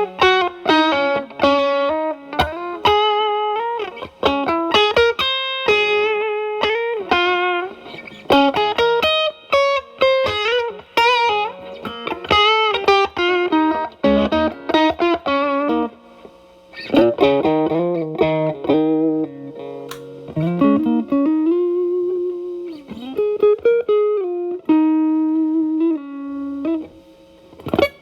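Electric guitar, a Fender Telecaster, through an E.W.S. Brute Drive (BD-1) distortion pedal into a Marshall Valvestate amp: improvised single-note blues lead lines with string bends and short pauses between phrases.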